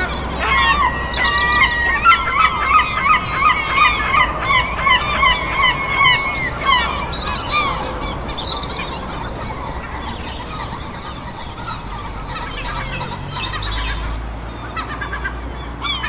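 Birds calling: a rapid run of pitched, honking calls, about two to three a second, for the first six or seven seconds. Fainter, scattered chirps follow over a steady background hiss.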